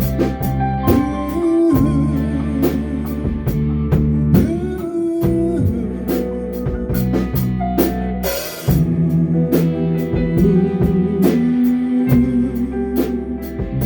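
Rock band playing live on guitar, bass and drum kit, with a cymbal crash about eight seconds in.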